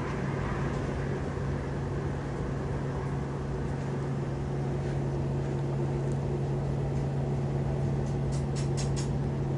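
A motor running steadily with a low, even hum, and a few short high clicks near the end.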